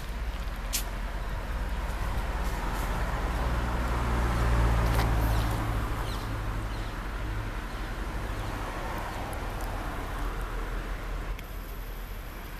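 Mercedes C 63 AMG Estate's 6.2-litre V8 idling with a steady low rumble, swelling briefly about four to five seconds in before settling back.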